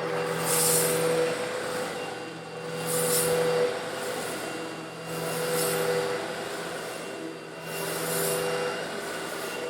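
Eureka vacuum cleaner running steadily while sucking up coarse stone granules, with a rattling hiss of grit swelling four times, about every two and a half seconds, as the nozzle is pushed back and forth.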